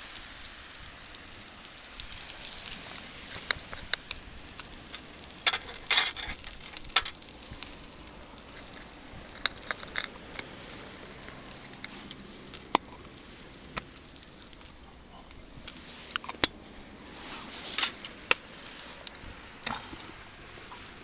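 Barbecue fire crackling and sizzling: irregular sharp pops over a steady hiss, bunching into quick clusters about a third of the way in and again near the end.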